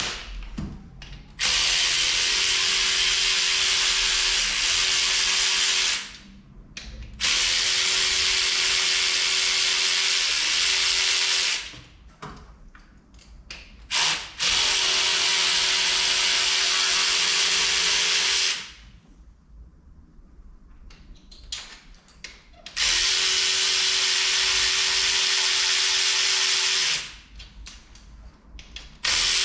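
Handheld power drill running in five steady runs of about four seconds each, stopping briefly between them, while undoing fasteners on a car engine.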